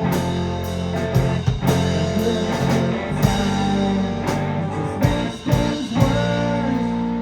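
Live rock band playing an instrumental passage, with electric guitar, bass, keyboards and drums. The drum and cymbal hits stop about six seconds in, leaving the chords ringing.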